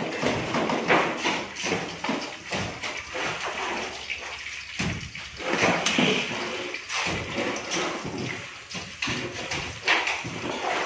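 Stir-fry sizzling in oil in a wok on a gas stove, a steady hiss with irregular clicks and knocks from the knife and utensils.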